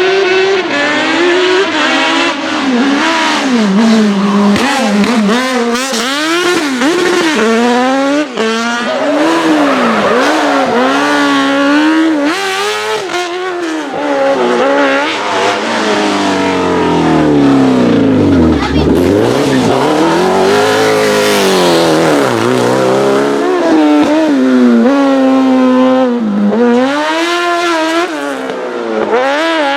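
Racing car engine driven hard, revs climbing and falling again and again through gear changes and lifts off the throttle. About halfway through the revs sink low and then climb steeply again.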